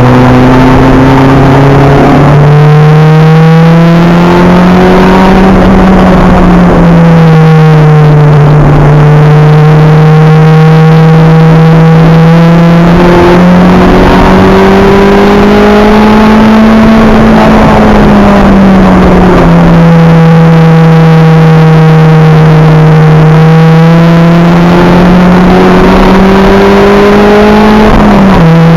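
Acura Integra race car's four-cylinder engine, heard on board at racing speed, very loud. Its pitch climbs and eases off several times as the car accelerates and slows through the corners, with a sudden drop in pitch near the end.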